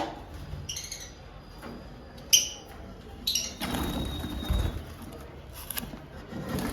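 Lovebirds giving a few short, shrill chirps, the loudest about two seconds in, with a knock at the start and low rustling of handling partway through.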